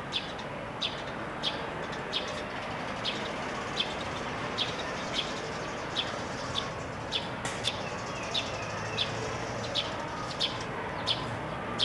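A bird repeating one short high chirp at an even pace, about three chirps every two seconds, over a steady background hum.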